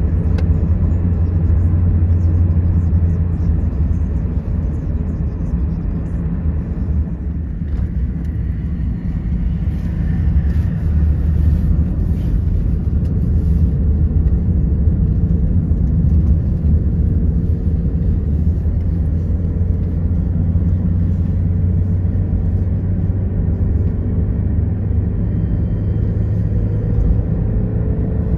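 Steady road and engine noise inside a moving car's cabin at highway speed, a low rumble, with the noise dipping briefly about seven seconds in.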